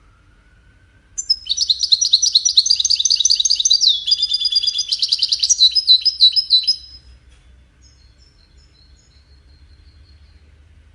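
European goldfinch singing: a rapid run of twittering, trilling notes starting about a second in and lasting some five and a half seconds, then only a few faint notes.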